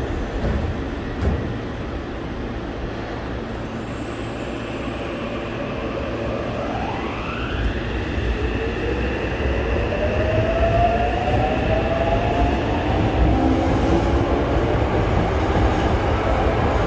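Yokohama Municipal Subway Blue Line electric train pulling out of the station and accelerating. Low rolling rumble throughout, with the traction motors' whine climbing steeply in pitch about halfway through, then a second lower whine rising more slowly as it gathers speed and grows louder.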